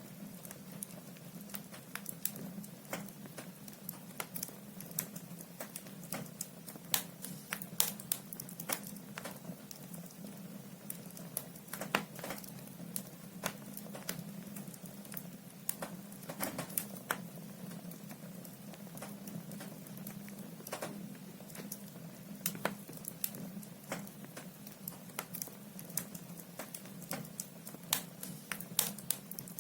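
Firewood logs burning in a fireplace, crackling with irregular sharp pops and snaps over a steady low hum.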